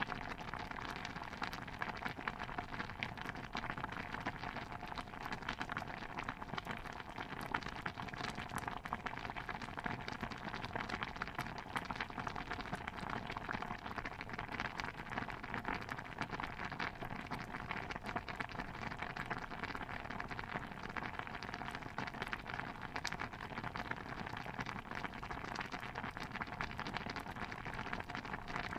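A steady, dense patter of small water pops and drips, unchanging throughout.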